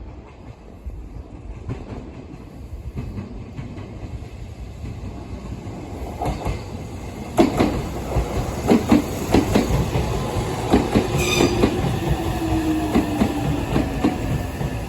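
Meitetsu electric train passing: a rumble that grows louder, then from about halfway the clatter of wheels knocking over rail joints, with a slowly falling whine underneath.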